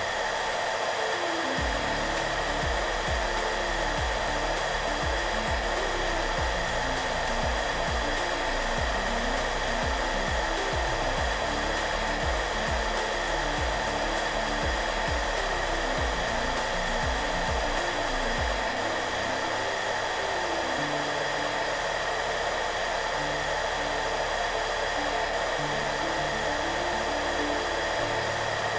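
Electric hairdryer running steadily, a constant airy whoosh with a steady hum, over soft background music playing low notes.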